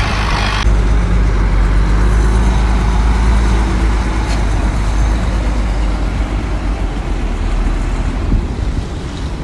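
Heavy diesel engine of earthmoving equipment running steadily with a deep low rumble. A loud hiss stops suddenly under a second in.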